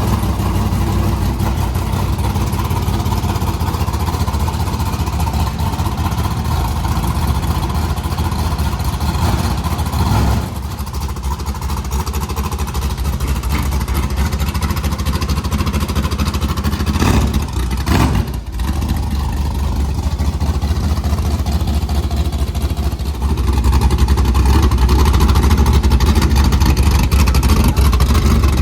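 Engine running loudly and steadily, easing off about ten seconds in and growing louder again near the end.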